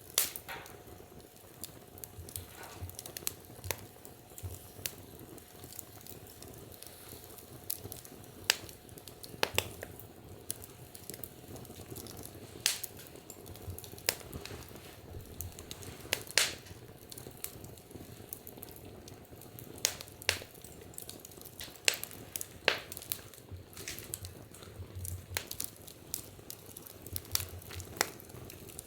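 Wood fire crackling: irregular sharp pops and snaps, a few of them louder, over a soft steady hiss.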